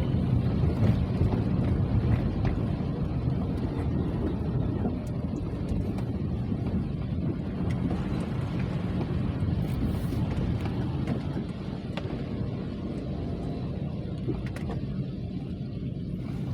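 Steady rain with wind on the microphone: a continuous low rumbling hiss with scattered faint ticks.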